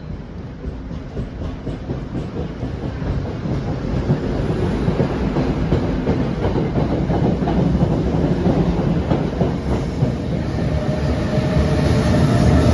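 NJ Transit Comet commuter coaches roll past as the train pulls out and gathers speed, their wheels clicking over the rail joints. The sound grows steadily louder and is loudest near the end, when the locomotive at the rear of the train draws level.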